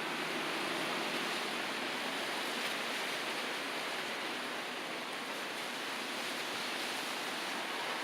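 Strong wind blowing steadily through trees and foliage: a continuous rushing noise without a break.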